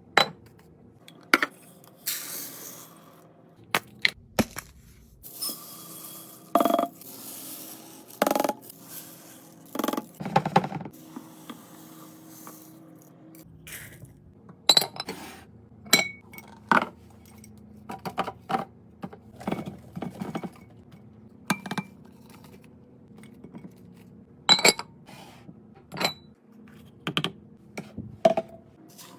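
Irregular sharp clinks and taps of small hard objects, some ringing briefly, with a few short stretches of scraping or rustling noise.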